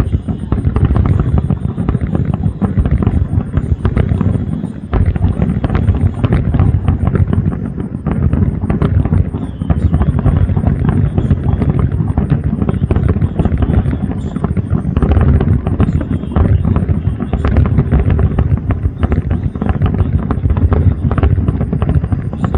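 Fireworks barrage: many booms and crackles overlapping with no break, heavy in the low rumble.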